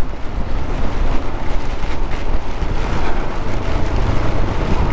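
Royal Enfield Scram 411 motorcycle underway in heavy rain: a steady rumble of engine and road noise under heavy wind buffeting on the microphone.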